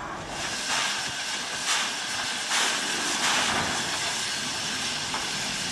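Steam locomotive hissing steam at a standstill: a steady hiss with four louder gusts in the first few seconds.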